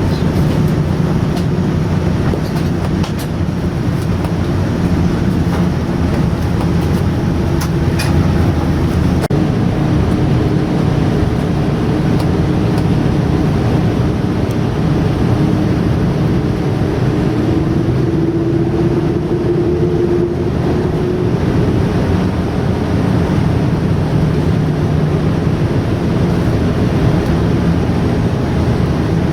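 Cabin noise inside a Boeing 787-9 airliner: a steady, loud rumble of the engines and the aircraft moving, with a faint engine hum.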